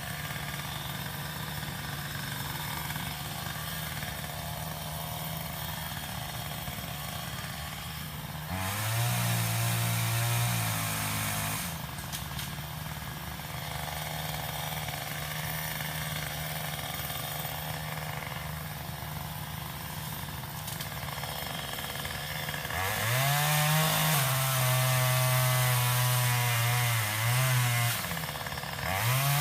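Craftsman power limb cutter (pole saw) running at idle, revved up to full speed for about three seconds roughly nine seconds in, then for about five seconds near the end, as it cuts tree limbs, with a brief rev again at the very end.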